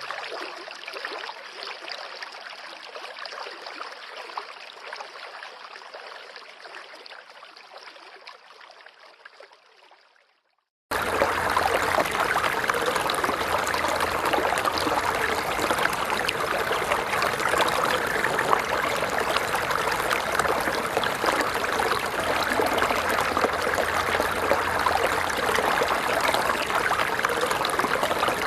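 Flowing stream water fading out over about ten seconds to a brief silence, then a louder, fuller stream recording cuts in abruptly and runs steadily.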